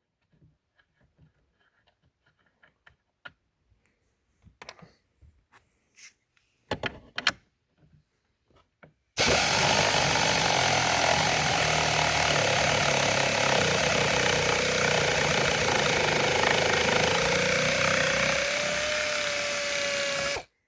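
Faint clicks and handling knocks, then a power tool starts abruptly about nine seconds in and runs steadily for about eleven seconds, its pitch rising slightly near the end before it cuts off.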